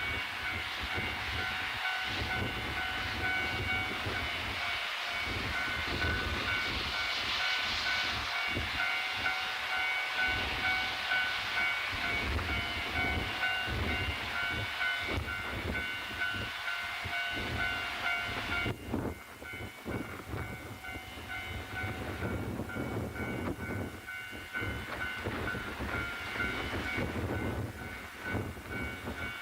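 A Japanese National Railways diesel train running, with a steady high-pitched whine for most of the stretch. The whine changes and the sound drops a little about 19 seconds in. Strong wind rumbles on the microphone underneath.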